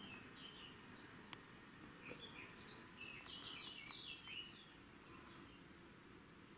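Faint bird chirping: a quick run of short high chirps over the first four seconds or so, then near silence.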